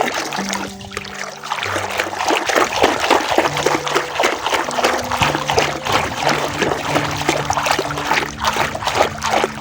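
Water churning and splashing in a whirlpool, a dense run of quick splashes throughout, with faint steady tones underneath.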